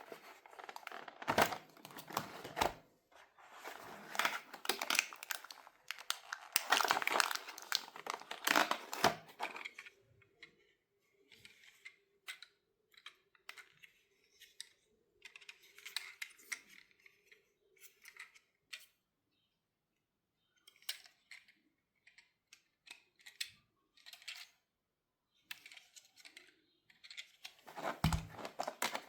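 Plastic packaging crinkling and tearing as a toy car is unboxed, then scattered light clicks and taps of small plastic parts being handled, with a faint steady hum for several seconds in the middle. The crinkling returns near the end.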